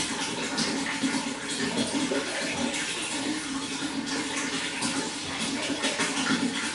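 Running water flowing steadily, with a constant rush full of small splashes and trickles.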